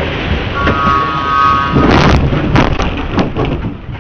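Fireworks going off close around the car: loud continuous crackling and hissing, with sharp bangs about two seconds in and a short high steady tone near the start.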